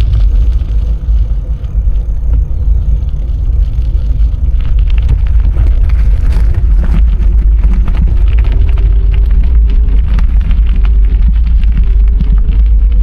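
Wind buffeting the microphone of a camera on a moving bicycle, a steady heavy rumble, with clicks and rattles from the tyres and bike on the path.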